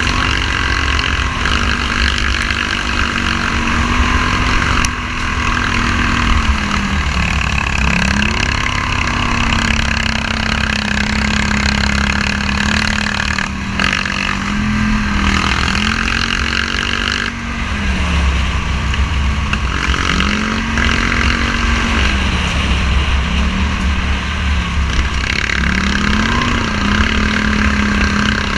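Scrambler motorcycle's engine running under way at a steady pitch, with its speed dipping and climbing back again five or six times, over a heavy low rumble.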